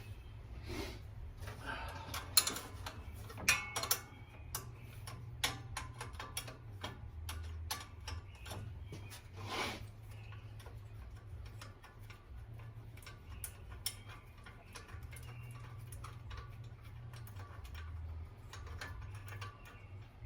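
Irregular clicks and metallic clinks of hand tools, a ratchet wrench among them, working bolts on the front of a Ford 302 V8 engine, with a low steady hum underneath.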